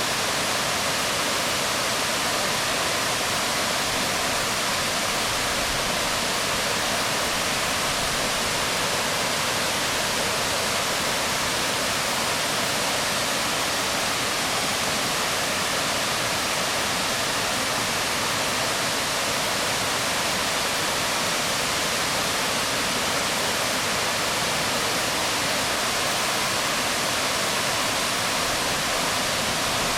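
Waterfall splashing onto rocks: a steady, unbroken rush of water noise.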